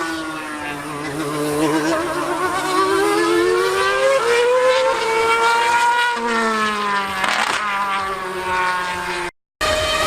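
Formula One car engine revving high, its pitch climbing and falling over several seconds as it accelerates and runs past. The sound drops out abruptly for a moment near the end.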